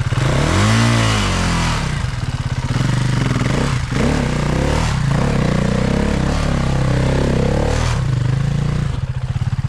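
Enduro dirt bike engine revved up and back down once about a second in, then running on at varying revs, with clattering and scraping as the bike works over rocky ground.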